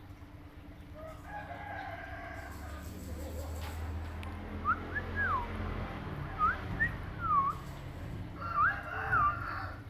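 A pet parrot calling: a drawn-out call about a second in, then a string of short whistles, each rising and falling in pitch.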